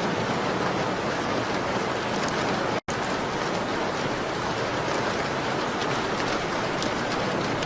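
Steady rain on a window: a dense, even hiss with faint light ticks, cut by a split-second gap of total silence about three seconds in.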